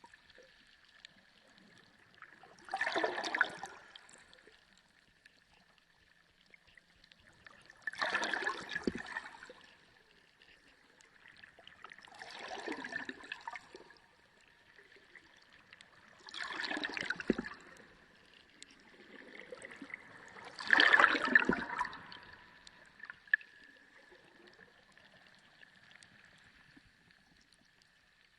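Underwater sea recording: five surges of water noise about every four to five seconds, the loudest about three quarters of the way through, over a faint steady high whine.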